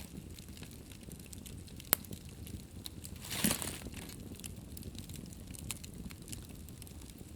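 Wood fire burning in a fireplace: a low steady rumble of flames with scattered crackles, one sharp pop just under two seconds in, and a brief hissing flare-up about a second and a half later.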